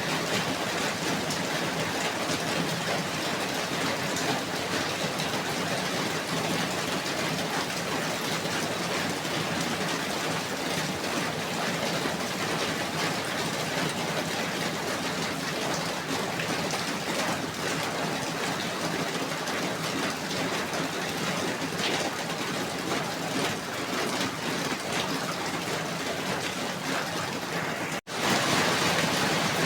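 Steady rain falling, an even hiss of drops. Near the end it cuts out for an instant and comes back slightly louder and brighter.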